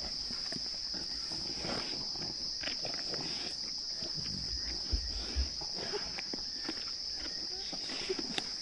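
Crickets chirping steadily, over the irregular tearing, crunching and scuffling of hyenas feeding on a buffalo, with a couple of low thumps about five seconds in.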